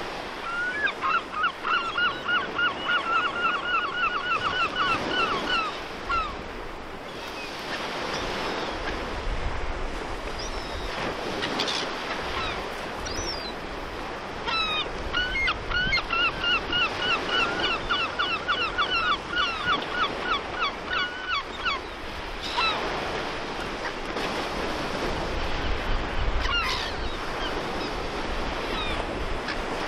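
A bird calling in two long runs of rapid repeated notes, one about a second in and one around the middle, over a steady hiss of surf and wind.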